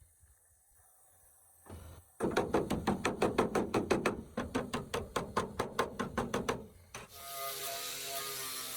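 Rapid back-and-forth hand strokes, about five a second, scraping or filing at a part, starting about two seconds in and stopping shortly before the end. Then a small electric power tool starts running steadily.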